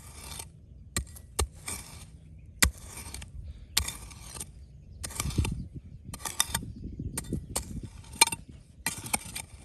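Stones and gravel being scraped and knocked together in short strokes about once a second, with sharp clinks between them, the loudest a little under 3 seconds in and about 8 seconds in.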